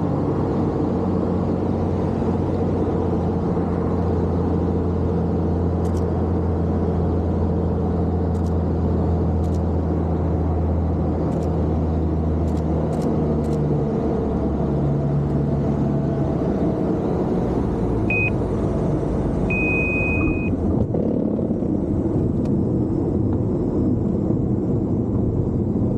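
A motor vehicle running steadily with a low engine hum and road noise, which drops away about two-thirds of the way through. Two short high-pitched electronic beeps follow, the second one longer.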